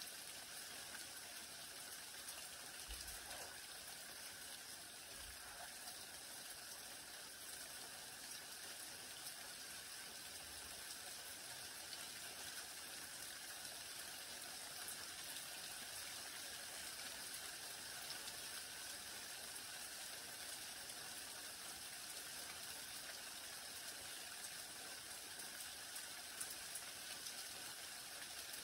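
Steady light rain falling, a fine patter of many individual drops.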